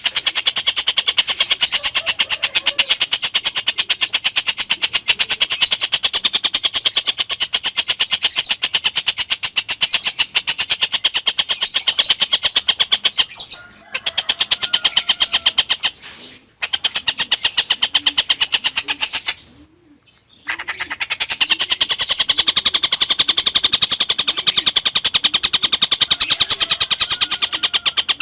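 Tengkek buto (collared kingfisher) calling in a fast, tightly packed chatter of many short notes a second. The chatter breaks off briefly three times in the second half.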